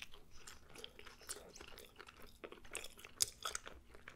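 Close-miked chewing of a mouthful of grilled pita wrap: many small, irregular crunches and mouth clicks, with one sharper click a little after three seconds.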